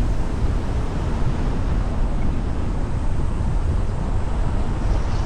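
A car driving along a road: steady road and wind noise with a strong low rumble.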